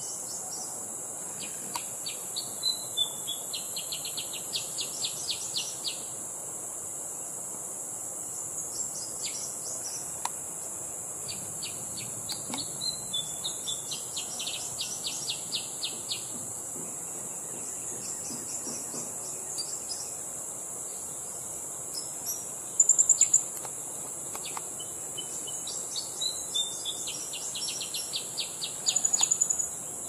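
Kutilang emas bulbul singing three times, each phrase a few quick notes running into a fast, even rattle of about six strokes a second, over a steady high insect drone. Twice in the second half there is a short burst of very high, sharp chirps, louder than the song.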